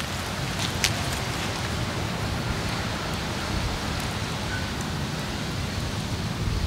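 Steady noise of wind buffeting the microphone, a heavy low rumble, with a few sharp crackles from a wood fire in a mesh fire pit within the first second.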